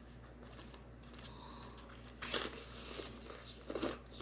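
Close-up eating noises: a few short bursts of crunching and crinkling in the second half, after a quiet start.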